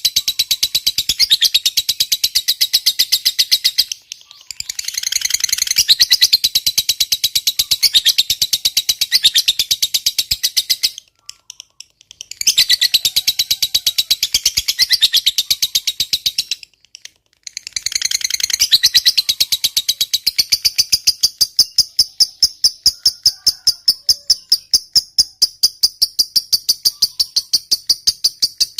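Lovebird ngekek: a long, rapid run of high chattering chirps, broken by brief pauses about 4, 11 and 17 seconds in, and growing more even toward the end.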